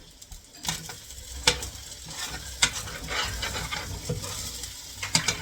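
Fried rice sizzling in a pan while it is stirred and mixed, the cooking utensil knocking against the pan several times.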